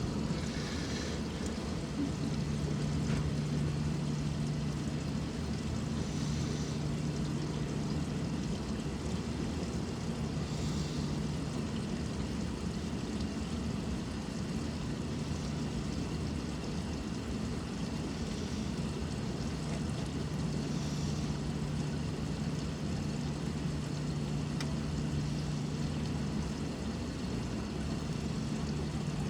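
Water running steadily into a Maytag Neptune front-loading washer as it fills through its dispenser, over a constant low machine hum.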